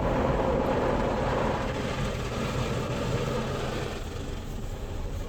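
PDQ ProTouch Tandem in-bay automatic car wash running over the car, heard from inside the cabin: a steady rushing of water and machinery that slowly fades.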